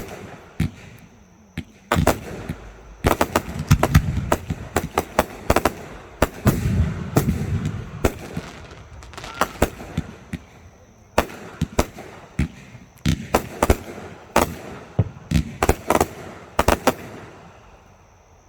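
Aerial fireworks going off in rapid volleys of sharp bangs and crackles, with a denser low rumble about three to eight seconds in. The bangs thin out near the end.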